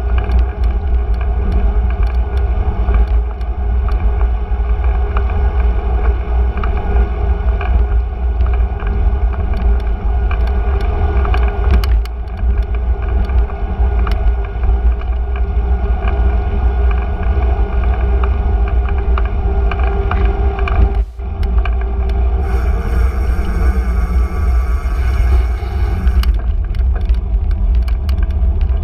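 Street sound heard from a moving bicycle in city traffic: a steady low rumble with passing vehicles and scattered light rattles. A high-pitched sound joins for a few seconds about two-thirds of the way through.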